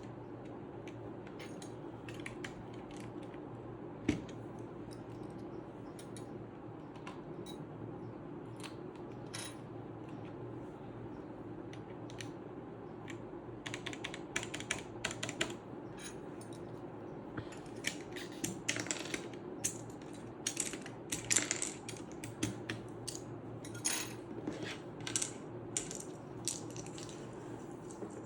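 Small plastic clicks and clatter of keycaps being handled and pressed onto a mechanical keyboard's switches, sparse at first and coming faster and louder after about halfway, over a steady low hum.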